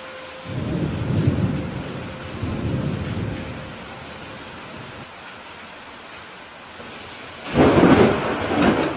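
Steady rain falling, with thunder rumbling low for about three seconds starting half a second in, then a sudden, louder thunderclap near the end.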